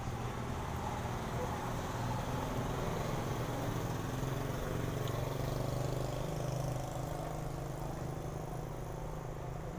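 Ferry engine running steadily underway, a low drone with rumbling noise, with no horn sounding.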